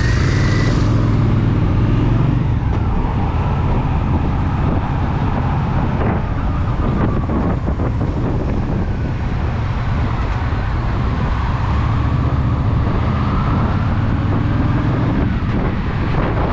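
Honda Shadow VT750's V-twin engine running steadily on the move, with wind noise over the microphone.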